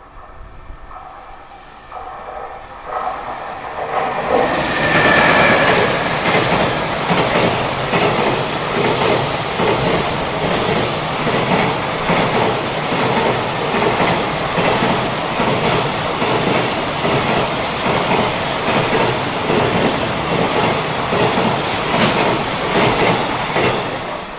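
A JR Freight container train hauled by an EF210 electric locomotive approaches and passes close by, growing louder over the first four seconds. It then settles into a steady rumble of container wagons rolling past, with rapid clickety-clack of wheels over rail joints.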